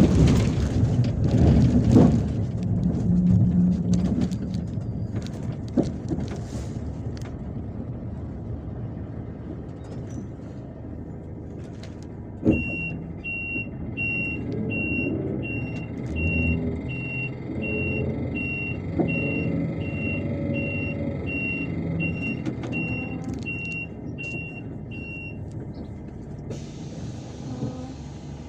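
MAZ-257 bus running, heard from inside, with a steady low engine hum and road noise, loudest in the first few seconds. About halfway through there is a sharp knock. A high electronic beep then starts, repeating about one and a half times a second for roughly thirteen seconds before it stops.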